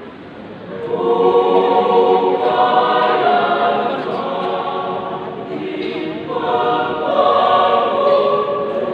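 A choir singing, the voices swelling loud about a second in, easing off in the middle, then swelling again.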